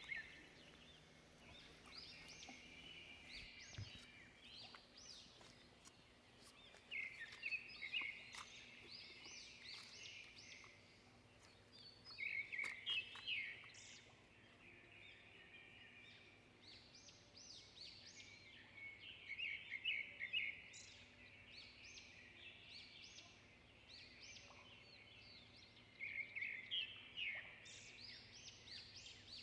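Faint songbird song: a short phrase of rapid, high chirping notes repeated about every six or seven seconds, with quieter chirps in between.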